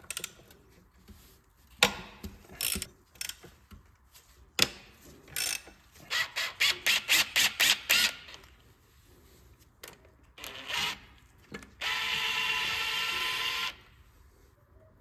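Ratchet wrench clicking in quick runs, with knocks of tools on metal, as the 12 mm bolts holding a power steering pump are loosened. A power tool whirs steadily for about two seconds near the end.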